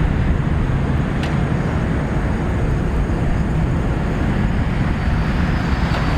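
Boeing 747-400 freighter's four jet engines heard as a steady low rumble as it climbs away after takeoff.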